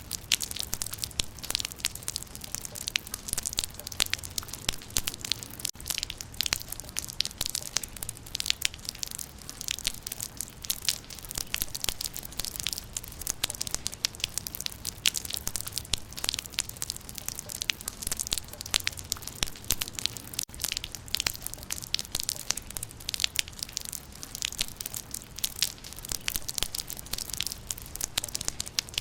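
Rain falling on leaves: a dense, steady patter of many small, sharp drop impacts.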